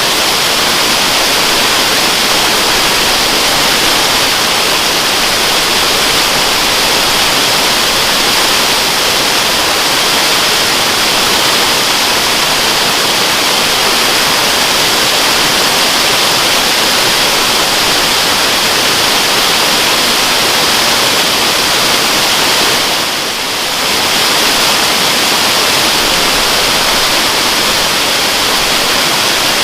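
Waterfall: steady rushing and hissing of falling water, dipping briefly in level about three-quarters of the way through.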